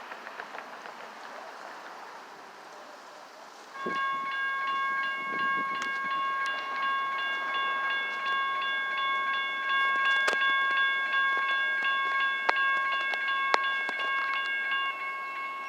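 Railroad crossing warning bell starts ringing about four seconds in and keeps ringing steadily, with a quick repeated pulse, over light street noise. A few sharp clanks sound through it.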